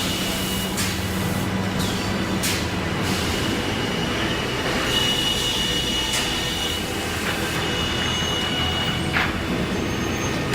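Woodworking saw machine running with a steady noisy hum and a thin high-pitched whine, with a few short squeals along the way.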